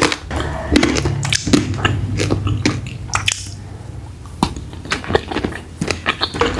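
A person chewing and crunching food close to the microphone: a run of short crunches and mouth clicks.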